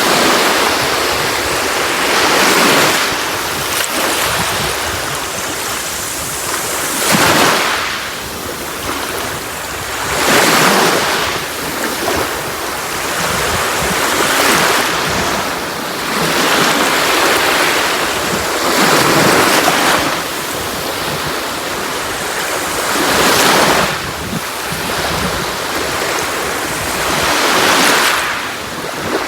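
Sea waves breaking on a shore. Each wave is a swell of rushing hiss that rises and falls, one every few seconds.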